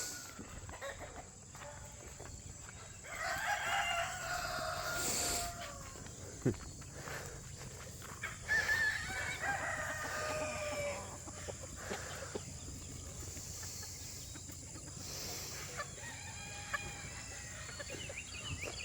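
Roosters crowing, two long crows a few seconds apart, with fainter calls later, over a steady high-pitched hiss.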